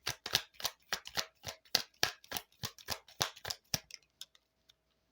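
A large deck of cigano fortune-telling cards being shuffled by hand: a quick, even run of crisp card snaps, about seven a second, thinning out to a few scattered ones near the end.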